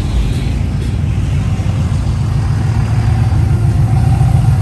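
Car engine running, with a deep, steady exhaust rumble that grows slightly louder near the end.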